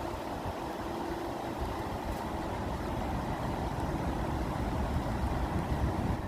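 Steady rushing water with a deep, low rumble, swelling slightly near the end.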